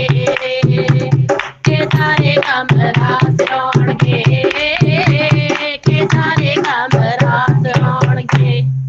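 Devotional Punjabi song: a voice singing over a steady drum beat, fading out at the very end.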